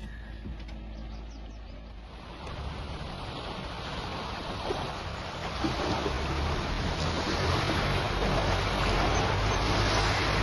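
Rushing wash of ocean surf and wind, swelling louder from about two seconds in and then holding steady.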